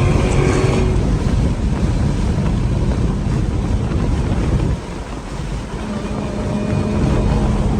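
Car driving at speed: a steady low engine and road rumble with wind noise on the microphone. The rumble drops suddenly about five seconds in, then slowly builds back up.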